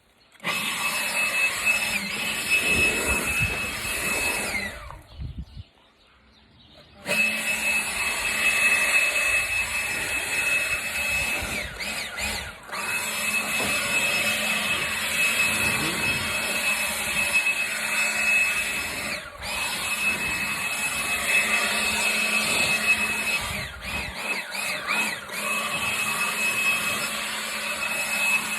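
A small electric motor tool runs with a steady high whine while fallen acorns and leaves are cleared from a yard. It dies away about four to five seconds in and starts up again about two seconds later.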